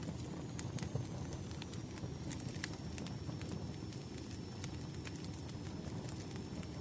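Wood fire crackling: a steady low rush of burning with frequent irregular sharp pops and snaps.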